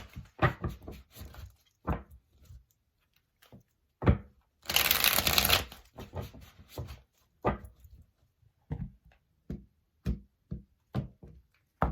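A tarot deck being shuffled and handled by hand: one quick rush of cards about five seconds in, among scattered soft taps and clicks of cards being moved.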